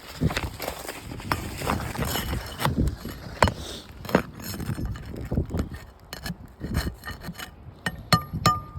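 Irregular scraping and rubbing strokes with knocks, and a few short metallic clinks near the end.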